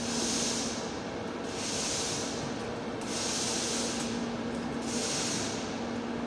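TIG welding arc on thick-walled pipe, a steady low hum under an even hiss. A brighter hiss swells and fades about every second and a half.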